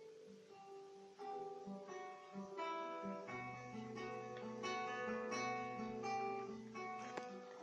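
Classical guitar played solo: a flowing run of plucked, arpeggiated notes over a bass note held through the middle of the passage.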